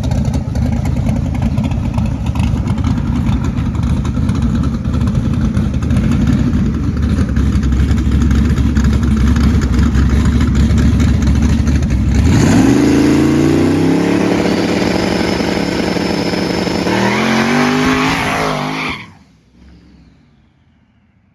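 Turbocharged LS V8 truck engine rumbling low and steady, then launching hard at full throttle about twelve seconds in. Its pitch climbs steeply, steps once and climbs again, with a high whistle over it, before the sound cuts off suddenly.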